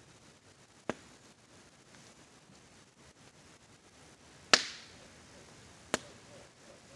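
Campfire wood crackling: three sharp pops, one about a second in, a louder one past the middle with a brief hiss after it, and a third shortly after. Under them is a faint steady hiss of rain.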